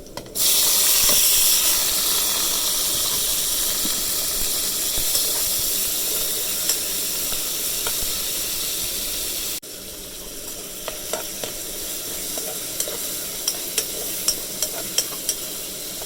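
Food frying in hot oil in a pan, a steady loud sizzle. After a cut partway through, the sizzle is softer and is broken by sharp spits and crackles of popping oil.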